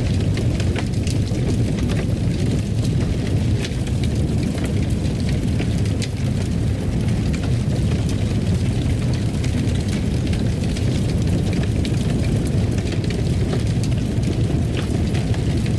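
Fire burning in a fireplace: a steady low roar with scattered small crackles and pops.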